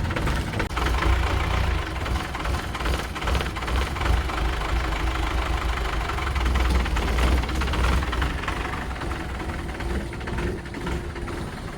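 Engine of a 30-year-old car running steadily with a low rumble.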